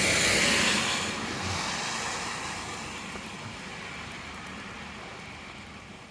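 A road vehicle driving past, its rushing tyre and engine noise loudest right at the start and fading away slowly over several seconds.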